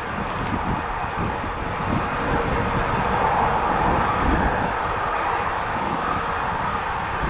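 Aircraft engines running steadily, growing a little louder around the middle, with gusty wind buffeting the microphone.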